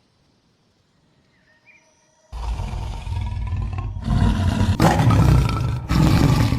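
Faint outdoor ambience with a small bird chirp. Then, a little over two seconds in, a loud animal roar starts abruptly, in several spliced sections that cut in and out, and it stops sharply at the end.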